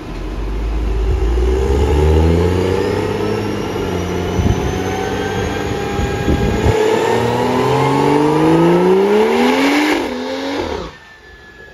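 Modified BMW 335i's turbocharged straight-six running at full load on a chassis dyno: the revs hold fairly steady at first, then climb steeply from about halfway. Near the end the pitch drops and the sound falls away quickly as the throttle closes.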